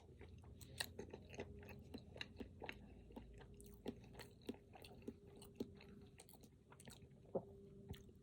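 Close-miked chewing of a Pingüino chocolate-coated snack cake with cream filling: soft, irregular mouth clicks and smacks, several a second, over a faint steady hum.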